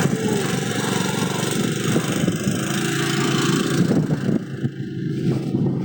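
A small vehicle engine running steadily at a mid pitch.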